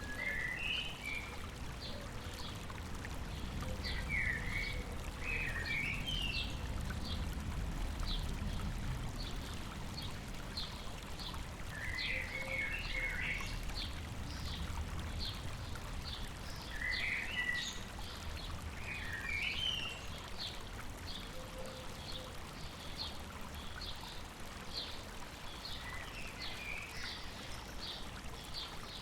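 River water flowing steadily over rocks, with birdsong on top: one bird repeats a short high chip about twice a second throughout, while another sings brief twittering phrases every few seconds.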